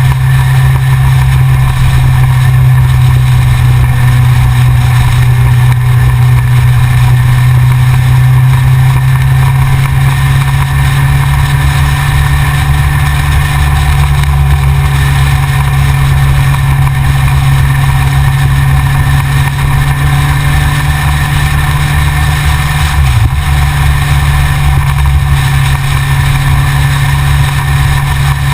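Yamaha XJR's air-cooled inline-four motorcycle engine running at a steady note, heard from a camera mounted on the front of the bike, with a brief dip in the note about two-thirds of the way through.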